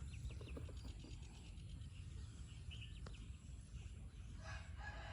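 Faint, scattered high chirps over a low steady background, with one sharp click about three seconds in.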